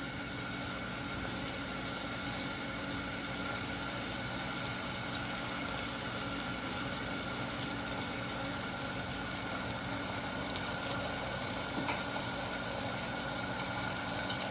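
Chopped onions and green chillies frying in hot oil in a pan: a steady sizzle, with a faint steady hum underneath.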